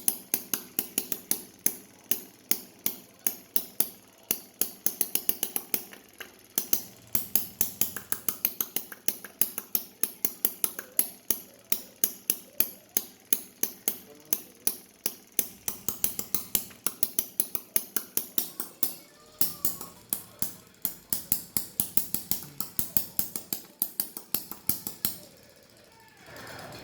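Homemade miniature internal combustion engine running slowly, a sharp click or pop about four times a second, stopping briefly about six seconds in and again near the end.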